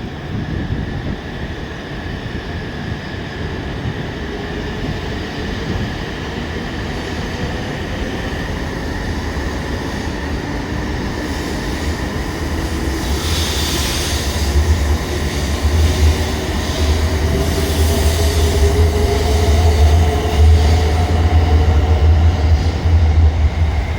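E2 series Shinkansen pulling out and accelerating, its traction motors whining steadily higher in pitch over a growing rumble of wheels on rail. It gets louder as the train picks up speed.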